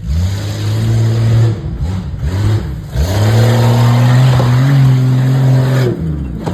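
A vehicle engine revved hard in bursts. It climbs quickly and holds for about a second and a half, blips briefly a couple of times, then holds a longer high rev for about three seconds before dropping off near the end.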